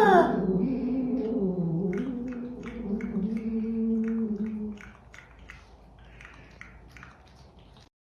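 A pet animal's long, low, wavering vocal call, a drawn-out whine or yowl lasting about five seconds, then fading to faint soft ticks and rustles.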